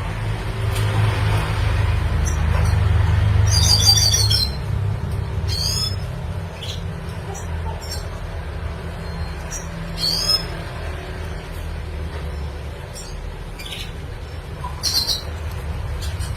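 Red siskin giving a handful of short, high chirping calls a few seconds apart, over a steady low rumble that is loudest in the first few seconds.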